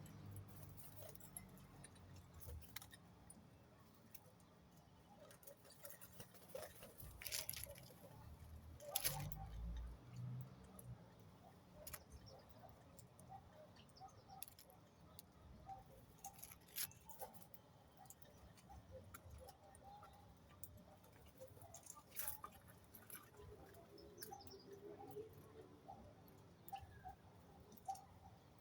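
Faint, short bird calls repeating here and there, with scattered sharp clicks and taps, the loudest about 7, 9 and 22 seconds in.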